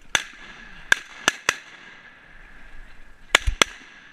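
Shotgun shots at ducks: four sharp reports in the first second and a half, then two more close together near the end.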